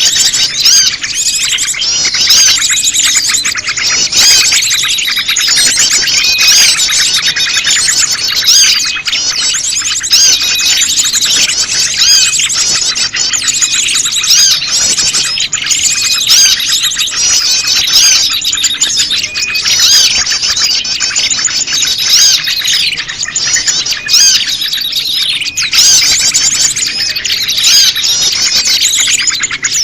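Bird-lure recording of prenjak lumut calls mixed with a noisy chorus of small birds: dense, overlapping high chirps and trills that run on without a break.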